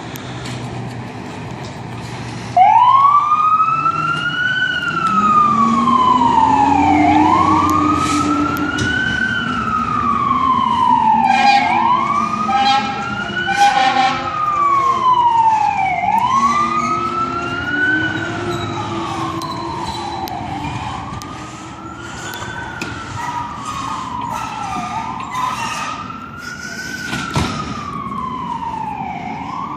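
Fire apparatus siren wailing, starting about two and a half seconds in and rising and falling about every four and a half seconds. Blasts of a horn come near the middle.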